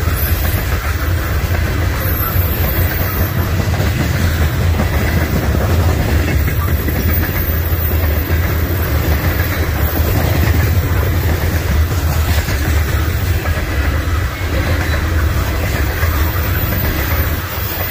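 Norfolk Southern freight train's cars rolling past: a steady rumble of steel wheels on the rails.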